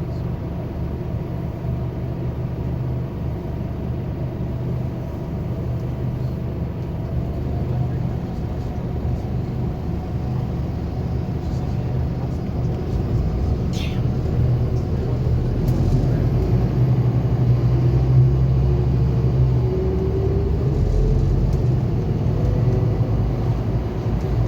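Scania K280UB4 city bus's diesel engine running under way, a steady low rumble that grows louder partway through. Near the end a whine rises in pitch as the bus gathers speed.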